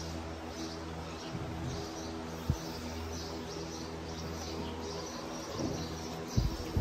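Birds chirping over a steady low hum, with a couple of short dull thumps, one about two and a half seconds in and another near the end.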